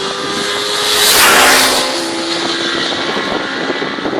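Sport motorcycle engine running at high revs, loudest about a second in, its pitch dropping after the peak.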